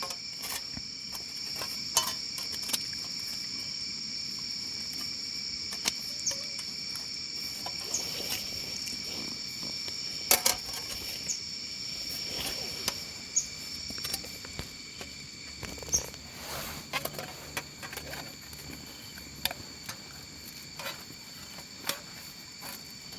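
Steady insect chorus, several high trills at once, with scattered sharp clicks and light metallic knocks from thin licence-plate metal being handled and fitted together into a small stove, the loudest about 2 and 10 seconds in.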